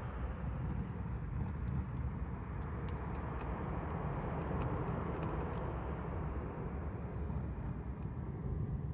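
Campfire burning: a steady low rushing noise with scattered sharp crackles and pops from the burning wood, several of them a second or so apart.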